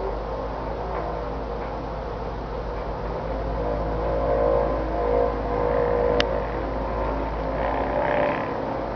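An unexplained droning hum with layered tones, the 'strange sky sound' likened to the sounds heard over Kiev. It swells for a few seconds around the middle and dies back, a sharp click comes about six seconds in, and a higher tone rises near the end.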